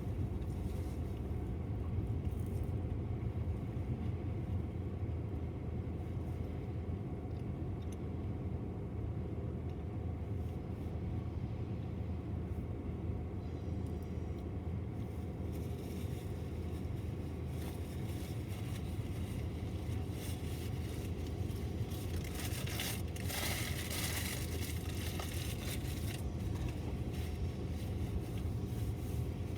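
BNSF intermodal freight train rolling past with a steady low rumble of wheels on rail. A brighter scraping hiss rises for a few seconds about three-quarters of the way through.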